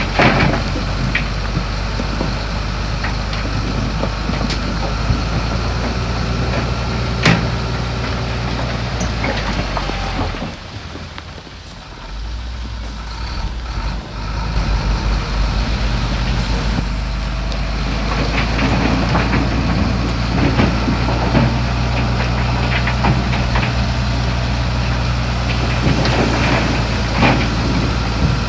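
Heavy diesel earthmoving machinery running with a steady low drone and occasional sharp metallic clanks. The engine sound falls away for a couple of seconds about ten seconds in, then picks up again and runs on.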